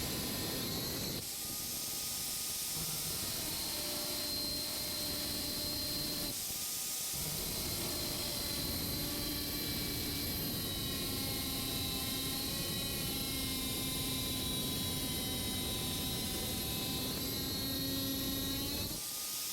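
An electric power tool running steadily with a hissing whine, in several stretches that stop and restart: a tool working the steel sheet.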